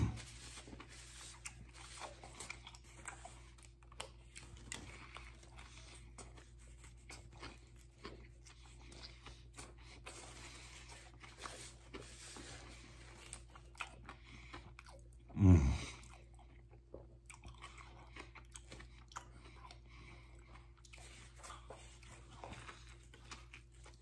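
Quiet chewing and crunching of a sub sandwich stuffed with lettuce, pickles and cucumbers, with soft clicks from the mouth. About fifteen seconds in comes one short, low call that falls in pitch.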